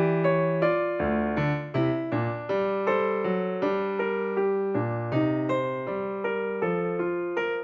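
Background music: a piano or electric piano playing a melody of struck notes, each fading before the next.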